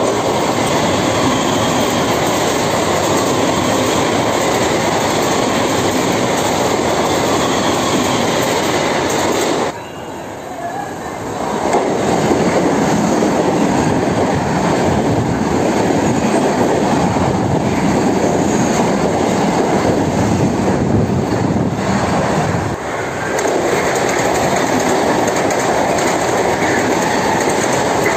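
Central Railway EMU local trains passing through station platforms at speed: a loud, steady noise of wheels running on the rails. The sound drops briefly twice, about ten and twenty-three seconds in.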